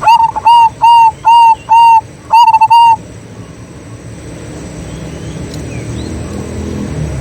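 Zebra dove cooing: a quick series of about seven loud, clear notes over the first three seconds. After that, faint small-bird chirps and a low rumble that builds near the end.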